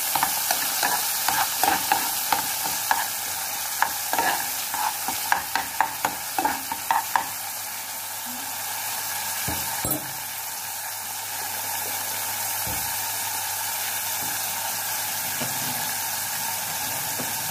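Onion, green chilli and tomato frying in a metal pan just after a little water was added, with a metal spoon clinking and scraping against the pan as it stirs for the first seven seconds or so. After that a steady sizzle goes on, with a single knock about ten seconds in.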